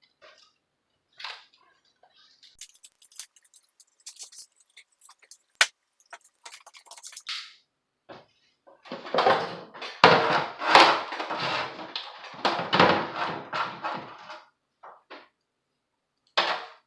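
Hands working on an old metal store clock: light clicks and rattles of small parts, then about five seconds of loud, rough rubbing or scraping in short strokes, and one more brief stroke near the end.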